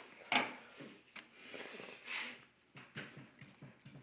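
Beans being spooned onto a tortilla: a few short scrapes and soft knocks, with a longer scraping hiss in the middle.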